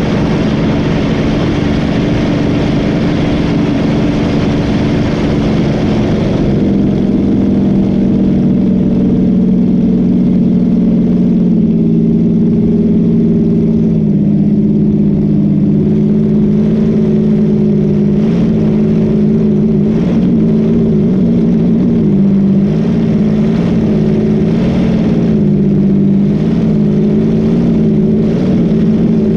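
Boat engine running steadily under way, its pitch wavering slightly up and down. A rushing hiss over it eases off about six seconds in.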